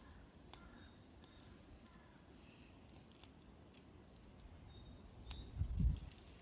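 Faint outdoor ambience with small birds chirping in short notes, and a brief low rumble about five and a half seconds in.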